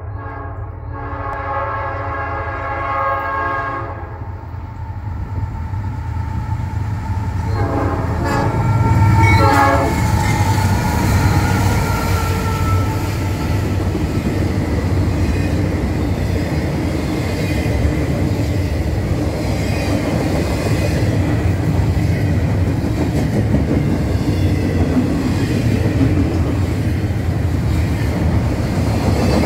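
Norfolk Southern freight train's diesel locomotives approaching with the horn blowing. A long blast fades out about four seconds in, and the horn sounds again briefly as the engines pass at their loudest around nine seconds in. After that comes the steady rumble and clickety-clack of double-stack container cars rolling past.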